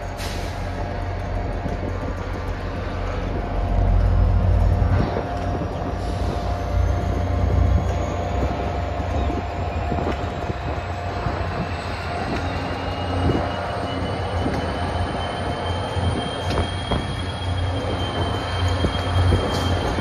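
Diesel locomotive hauling a passenger train, running with a steady low engine rumble and wheel noise that swells about four seconds in. A faint high whine slowly climbs in pitch through most of the stretch.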